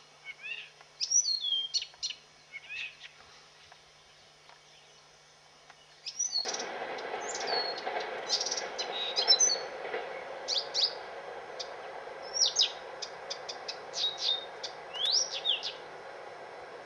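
A bird calling: a string of short chirps and quick downward-sweeping whistles, some in fast runs. A steady rushing noise starts abruptly about six seconds in beneath the calls.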